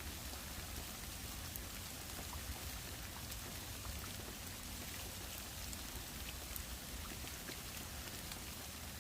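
Steady rain falling in a bamboo grove, with scattered nearby drops ticking now and then.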